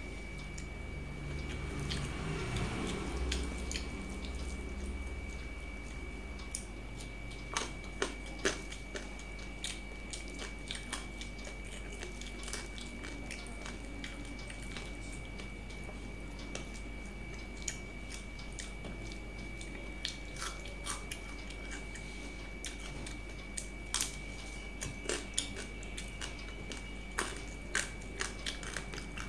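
Close-miked chewing and eating of rice and curry by hand, with many short mouth clicks and small clicks scattered throughout. A steady high-pitched tone runs underneath, and a louder low rustle fills the first few seconds.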